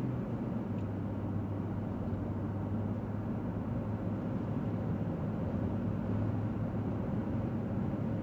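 Steady engine and road noise heard inside a moving car's cabin: a constant low drone with tyre hiss above it.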